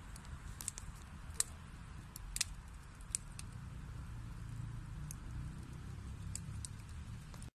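Wood burning in a fireplace: a low, steady rumble of flame with sharp crackles and pops from the burning wood, several in the first three seconds and a few more near the end.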